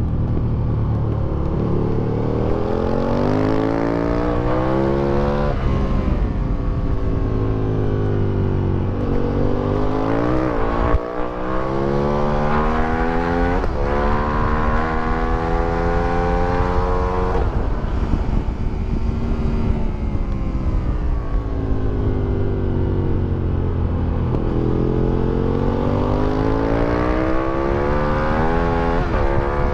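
2008 Aprilia Tuono 1000R's V-twin engine, fitted with an Akrapovic exhaust, velocity stacks and a remapped ECU, revving hard under acceleration: its pitch climbs and drops sharply again and again as it pulls through the gears. A lower, steadier stretch in the middle, where it slows for a corner, comes before it climbs hard again near the end.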